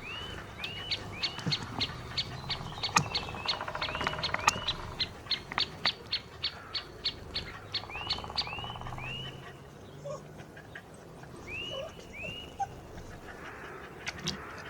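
Small songbirds singing outdoors: a quick series of sharp high notes, about three a second, for most of the first eight seconds, alongside repeated short arching chirps.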